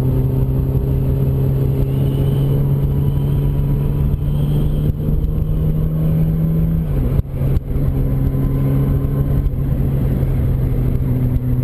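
Yamaha R1's inline-four engine running steadily under way, with road and wind noise. About seven seconds in, the level dips briefly and the engine note drops, then it carries on at the lower pitch.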